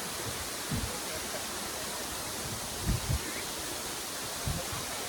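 Steady rush of water pouring over a small waterfall, with a few brief low thumps on the microphone.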